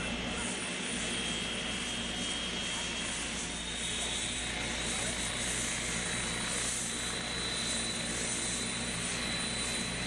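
Aircraft turbine engines running steadily on the taxiway: an even rush of engine noise with a low hum and a faint high whine.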